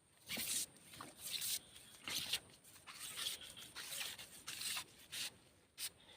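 A series of about eight short rustling, scraping strokes, roughly one every half second to second, like hands handling material close to the microphone.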